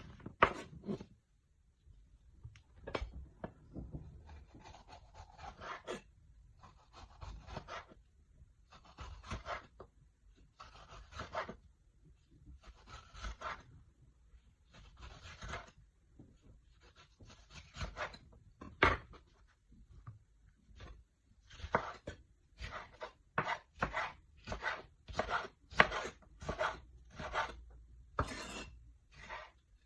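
Hand food preparation on a cutting board: a series of scraping, rubbing strokes about one every second or two, then, after a short pause, quicker and sharper cutting strokes at about two a second.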